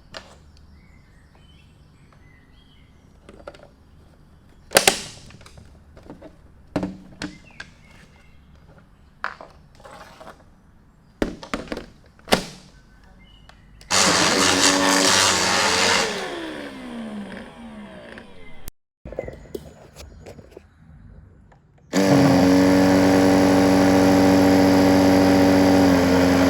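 Plastic clicks and knocks as the Deerma CM1900 cordless vacuum is handled and put back together, then its motor is switched on for about two seconds and winds down with a falling whine. About eight seconds from the end the motor starts again and runs steadily.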